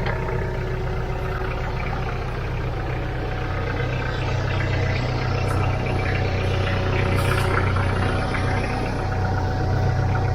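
Kubota L3940 tractor's diesel engine running at a steady idle.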